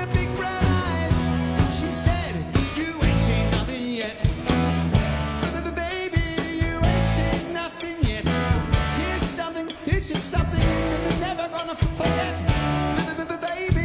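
Live rock band playing a seventies rock song on guitars, bass and drums, with a steady beat and a repeating bass line.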